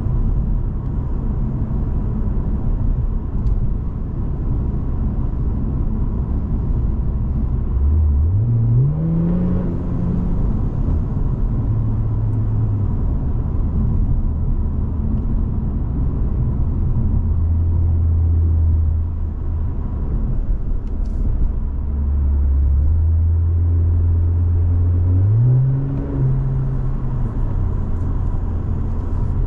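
2017 Infiniti Q60 Red Sport's twin-turbo 3.0-litre V6 through the Infiniti Performance exhaust while driving: a steady low drone at cruise, rising in pitch twice under acceleration and dropping back after each rise.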